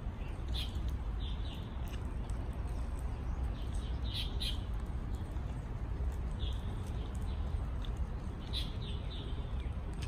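Birds in the trees chirping: short, high calls coming singly and in quick clusters of two or three, over a steady low rumble.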